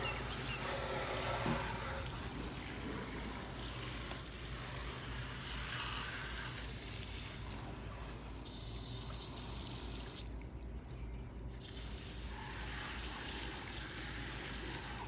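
Water spraying from a hose, the spray changing every few seconds, with a steady low hum underneath.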